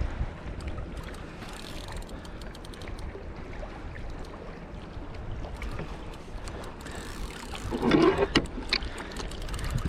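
Sounds aboard a kayak on open water: a steady low rumble of wind on the microphone with scattered small ticks and knocks, and a short louder clatter about eight seconds in.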